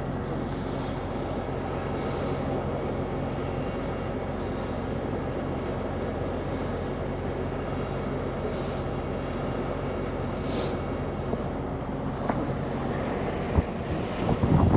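Heavy diesel truck engine running at a steady speed, with two knocks near the end.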